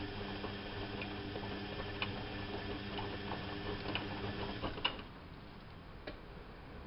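Bauknecht WAP 6460 washing machine running with a steady motor hum and light clicks about once a second; a sharper click comes near five seconds in and the hum stops, followed by one faint click.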